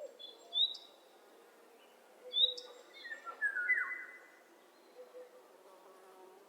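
Wild birds calling: two short, sharp high chirps about two seconds apart, then a short falling phrase, with fainter lower calls in the background.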